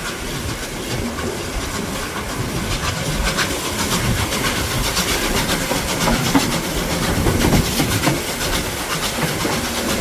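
Heritage railway carriages rolling along the track, a steady rumble with the wheels clicking over the rail joints, the clicking growing busier and a little louder from about three seconds in.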